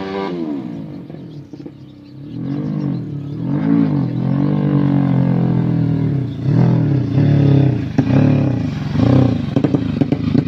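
Carbureted motorcycle engine tuned in the 'sleep engine' style, being blipped on the throttle. The revs fall away at first, then rise and drop sharply again and again, with one longer rev about halfway through. Near the end comes a fast run of short, sharp blips.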